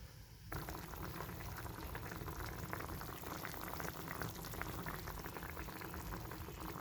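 Food sizzling and bubbling in a frying pan, a dense crackle of fine pops that starts suddenly about half a second in.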